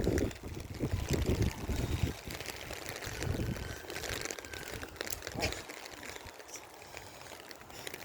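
Wind buffeting the microphone in heavy gusts that ease after about two seconds, with cold rain falling as a steady hiss dotted with many small ticks.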